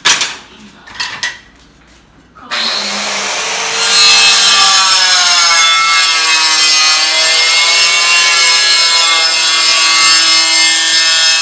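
A few short knocks, then about two and a half seconds in a power cutter starts and cuts steadily through a ceramic tile, loud, its whine wavering slightly in pitch under load, until it stops abruptly near the end.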